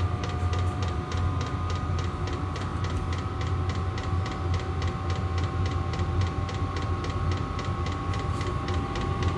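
Chinese 8 kW diesel air heater running as it spools up: steady fan whine over a low hum, with the fuel dosing pump ticking evenly, about five times a second.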